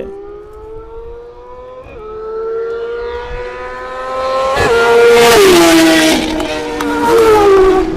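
Superbike engine accelerating hard, its pitch climbing with brief breaks at gear changes and growing loud about five seconds in, then falling away in pitch.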